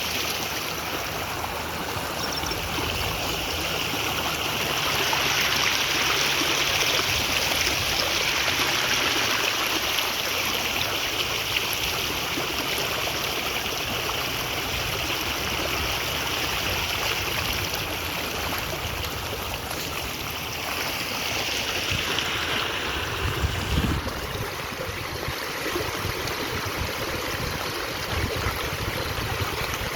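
Water rushing steadily, as a stream or waterfall runs, with a brief low knock about 24 seconds in.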